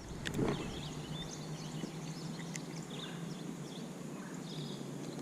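Faint lakeside ambience: scattered short bird chirps over a low, steady hum.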